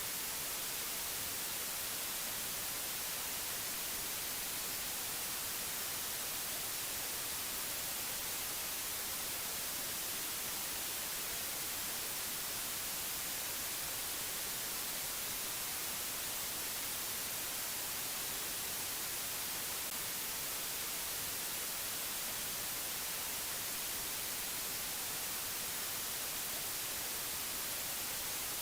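Steady, unchanging hiss, strongest in the high frequencies, with no other sound.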